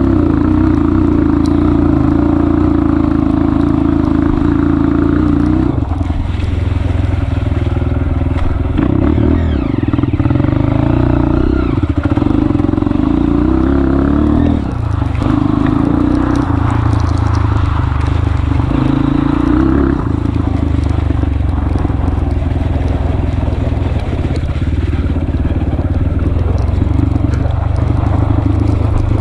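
Honda CRF230F trail bike's single-cylinder four-stroke engine running under load, the engine note easing off and picking up again several times as the throttle is closed and reopened.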